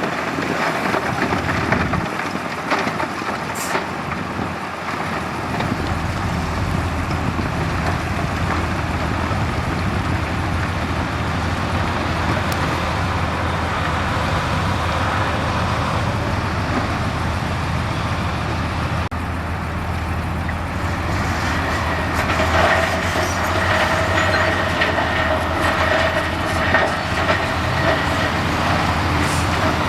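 Crawler bulldozer's diesel engine running under load, with its steel tracks clattering; a steady whine joins in about two-thirds of the way through.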